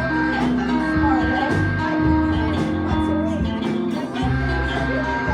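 A song played live, with guitar and a singing voice over a full, steady band sound.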